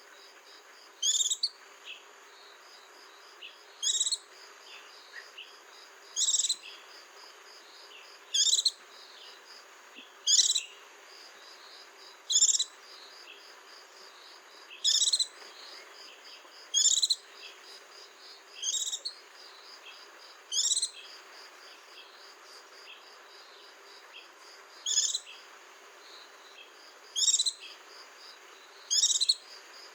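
White-eye (vành khuyên) calling: a short, sharp, high call repeated about every two seconds, with a longer pause near the middle, over a steady faint high pulsing trill.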